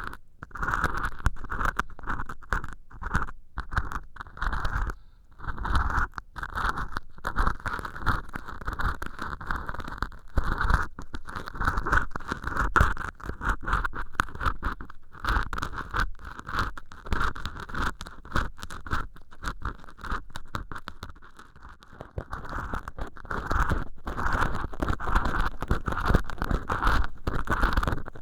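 Ear pick scraping and scratching inside an ear hole lined with acrylic dish-scrubber sponge, giving a dense run of close, rough scratches. There are short pauses about five seconds in and again just past twenty seconds.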